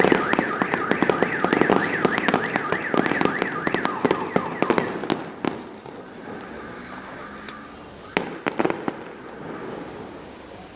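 Fireworks going off: a dense run of rapid crackling and bangs for about five seconds, with a car alarm warbling quickly up and down in the first couple of seconds. The barrage then thins out to a thin high whistle and a few scattered pops near the end.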